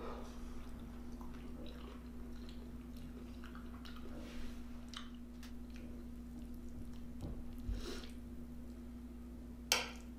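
Close-up chewing and wet mouth sounds of a person eating pepper steak and rice, with scattered small smacks and one sharp click near the end, over a steady low hum.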